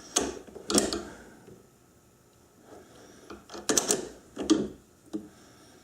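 Clicking and knocking of a four-jaw lathe chuck being adjusted with a chuck key to centre the work, a few sharp metal knocks near the start and a louder cluster a little past the middle.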